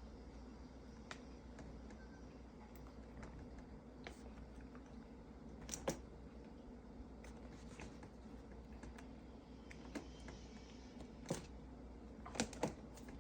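Scattered light taps and clicks of a calico cat's paws and claws as it spins chasing its own tail: about six in all, two close together near the end, over a faint steady hum.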